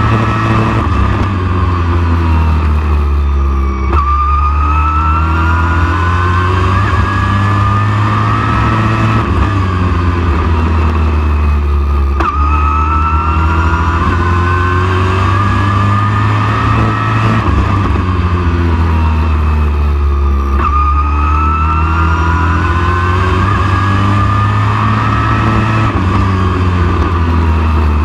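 Super truck race engine at racing speed. Its pitch climbs steadily as it accelerates, then drops sharply off the throttle about every eight seconds, three times in all.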